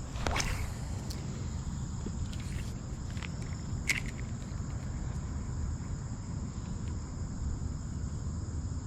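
Crickets chirring steadily over a low, even rush of fast-running river water. A short sharp swish comes about a quarter second in, followed by a few light clicks over the next few seconds.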